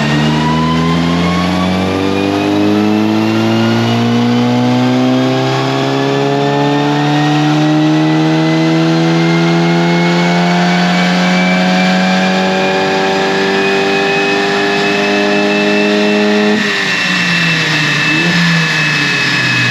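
Stage 2 tuned Volkswagen Polo GTI's turbocharged four-cylinder engine at full throttle on a chassis dyno, revving up in one long pull. It lifts off about 17 seconds in, and the pitch falls as the rollers spin down.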